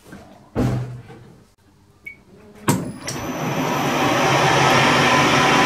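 Metal lathe switched on with a sharp click a little under three seconds in, then running steadily with a low motor hum and a loud hiss over it. A short knock comes before it starts.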